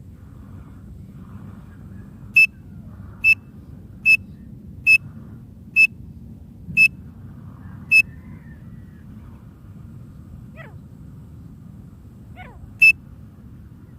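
Short, sharp high-pitched single call notes of a teetar (francolin), seven coming about once a second. After a gap, one more note comes near the end, over a low steady hum.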